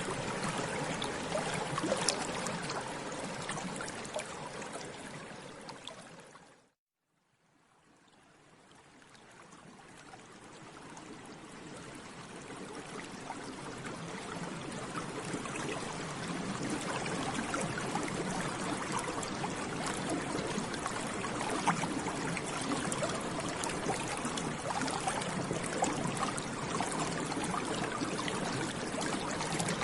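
Water bubbling steadily, with a dense patter of small pops. It fades out to silence about seven seconds in, then fades slowly back in over the next several seconds.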